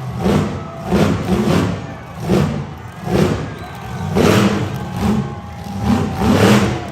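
Monster truck engine revving in repeated surges, about one a second, the pitch rising and falling with each blip of the throttle.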